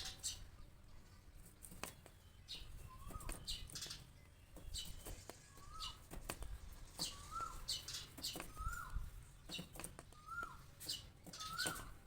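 A small bird calling over and over: a short note that rises then drops, about once a second, mixed with higher, thinner chirps and sharp taps in between.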